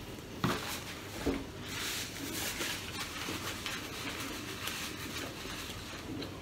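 A person chewing food with small wet mouth clicks and smacks, with a sharp click about half a second in and another just over a second in.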